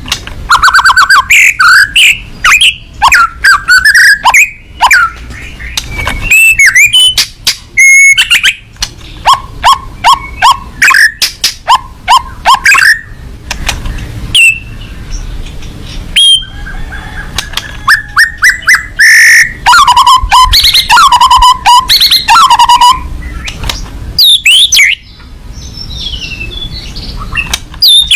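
White-rumped shama (murai batu) singing loudly and without letup: a varied song of sharp whistles and fast runs of repeated notes, broken by brief pauses.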